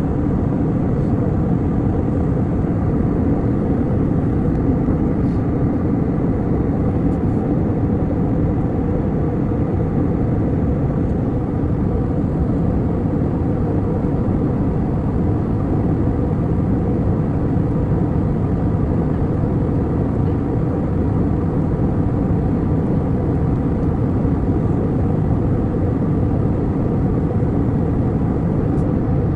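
Steady engine and airflow drone heard inside an airliner's cabin, a constant low rumble that does not change.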